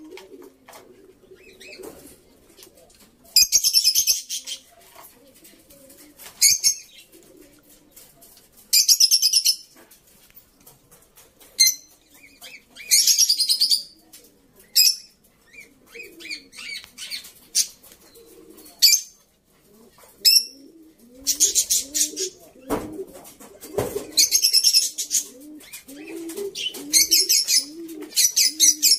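Pigeons cooing over and over, with about six loud, second-long bursts of high fluttering noise in between.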